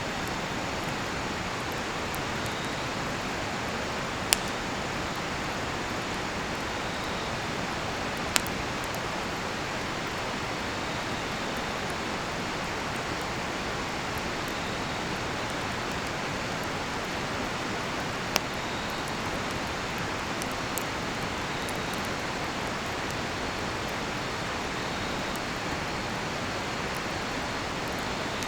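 Steady rushing of a nearby river, with sharp pops from a cedar-wood campfire four times, and faint intermittent cricket chirping.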